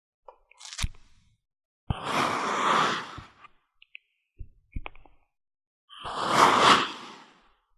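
Kinetic sand being worked: two long grainy, crunchy strokes of about a second each, with a few small taps and clicks between them.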